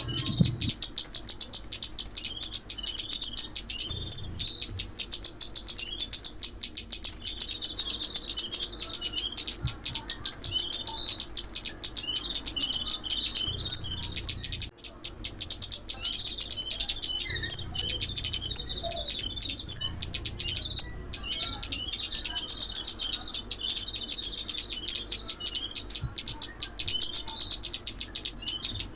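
Crimson sunbird song played as a trapping lure: runs of rapid high-pitched chirps and twitters with short breaks between them, over a thin steady high tone.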